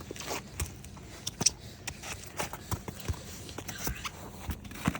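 Footsteps and handling in snow: a scatter of short, irregular crunches and rustles.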